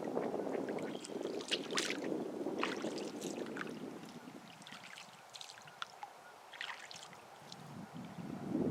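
Water splashing and dripping around a canoe being paddled: many short, crisp drips and splashes over a low rushing noise that dies down about halfway through.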